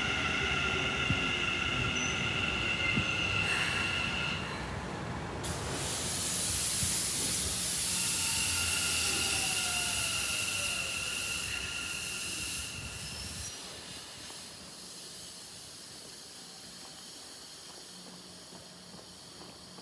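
A Keikyu electric train running past on the rails with high, steady wheel squeal, joined about five seconds in by a loud hiss, then fading away after about thirteen seconds.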